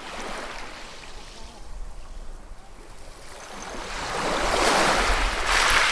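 Ocean waves breaking and washing on the shore. A small wave surges in just after the start, then a bigger wave builds and crashes near the end.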